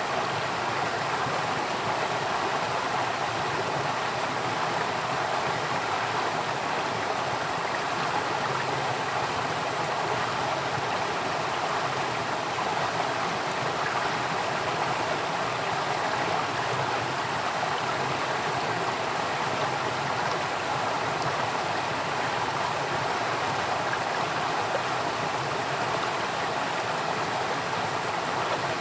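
Running water flowing steadily, a continuous even rushing.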